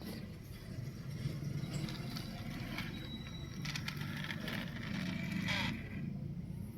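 A toy vehicle being backed up over the ground: wheels rolling and scraping, with a faint steady low hum underneath and a louder scrape about five and a half seconds in.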